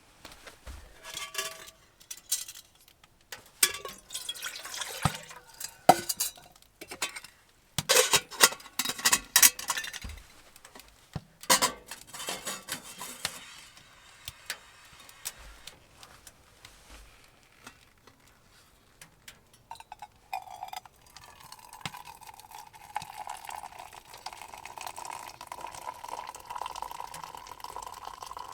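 Dishes clinking and knocking as a mug and pot are handled, then, after a quiet spell, liquid pouring steadily with a held tone for the last several seconds.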